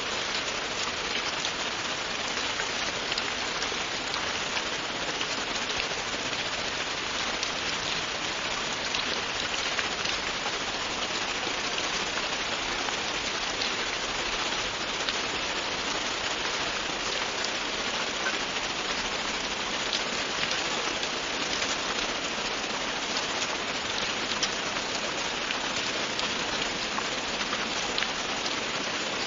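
Steady, continuous rainfall pattering on a surface, an even hiss of many drops with no pauses.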